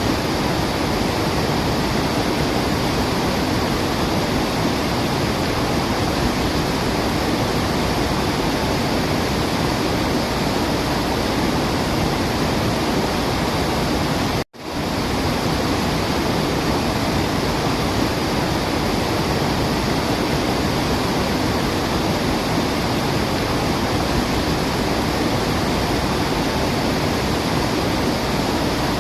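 Steady rushing of a waterfall, an even wash of falling water with no birdsong standing out. The sound drops out completely for an instant about halfway through, then resumes unchanged.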